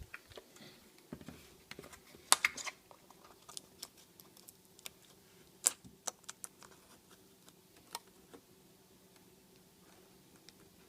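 Food packaging being handled: scattered clicks, taps and light rustles, with a sharper cluster about two and a half seconds in and another near six seconds, over a faint steady hum.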